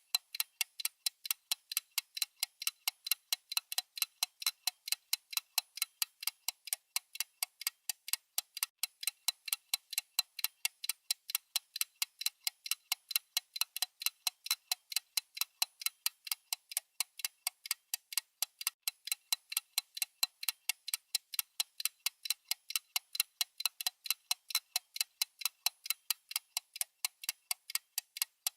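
Clock-style ticking sound effect: rapid, perfectly even, crisp ticks with no other sound.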